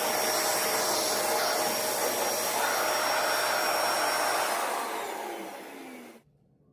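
Vacuum cleaner running with a steady whine, then switched off about five seconds in: its pitch falls as the motor spins down, and the sound stops abruptly just after six seconds.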